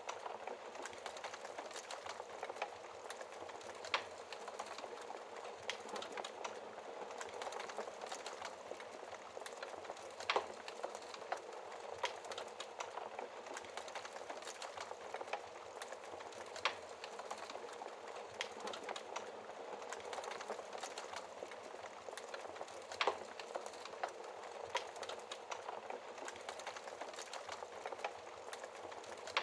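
Wood fire burning in a fireplace: a soft steady hiss with constant small crackles, and a louder sharp pop every six seconds or so.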